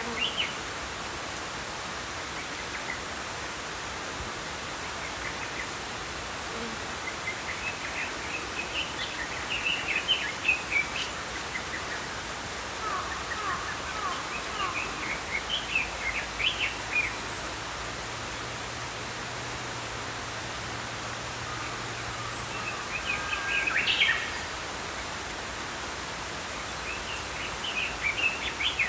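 Small songbirds chirping in scattered bursts of short notes over the steady rush of a flowing stream.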